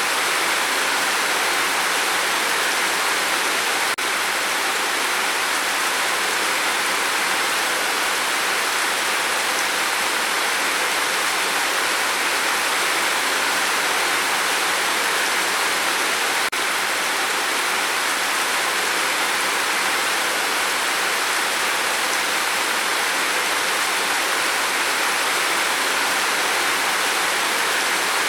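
Steady rain falling, an even, dense hiss with no single drops standing out.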